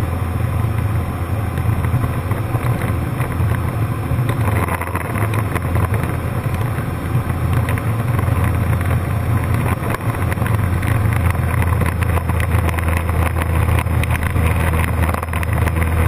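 Cessna 152's four-cylinder Lycoming O-235 engine and propeller droning steadily in cruise flight, heard inside the cabin with airflow noise.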